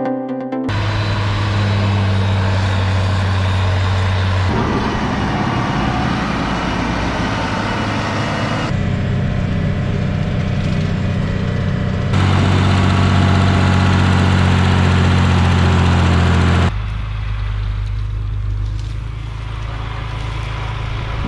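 Farm machinery engines running, heard as a string of short clips that cut abruptly from one machine to another every few seconds.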